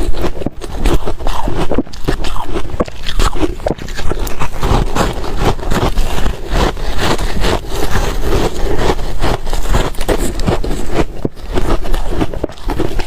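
Ice being crunched and chewed close to the microphone: a dense, unbroken run of sharp crunches and grinding.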